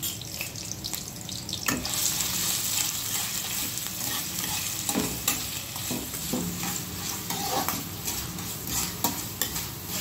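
Chopped onion sizzling as it fries in hot oil in a kadhai, stirred with frequent scrapes and clicks against the pan. The sizzle grows louder about two seconds in.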